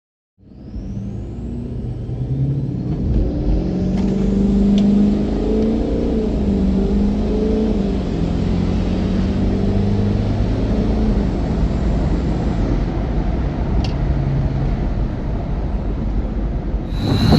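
Diesel pickup truck engine under hard acceleration, its pitch climbing and dropping several times as it shifts through the gears. It starts abruptly under half a second in and runs loud throughout.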